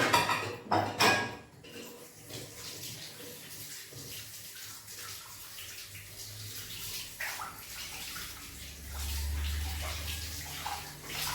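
Tap water running as hands are washed under it, with louder splashing in the first second or so, then a steady flow.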